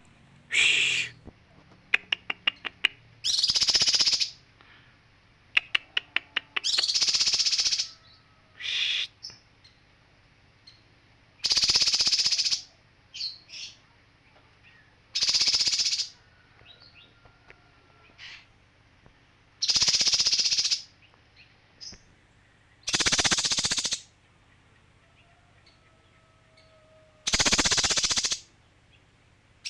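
Male kinoi songbird calling: harsh, rasping calls about a second long, repeated every few seconds. Twice near the start a quick run of sharp ticks comes just before a call.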